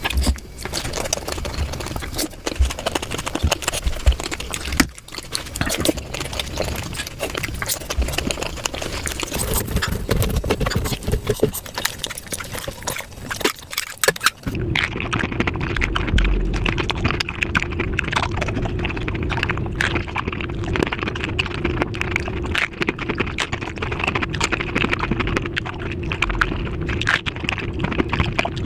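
Close-miked eating of dahi puri sped up about five times: a rapid, dense chatter of crunching and chewing. About halfway through the recording changes, duller, with a steady hum underneath.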